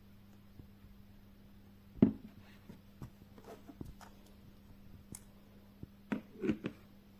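Handling noise: a sharp knock about two seconds in, then scattered light taps and clicks, with a small cluster of knocks near the end, over a faint steady hum.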